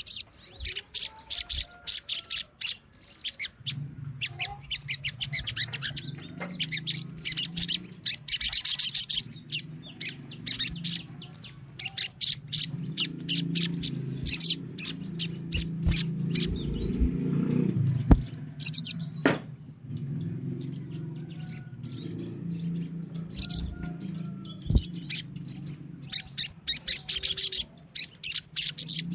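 A colony of sogon (spiderhunter) birds calling together: a dense, continuous chorus of rapid, sharp chirps. A low hum runs underneath, loudest around the middle.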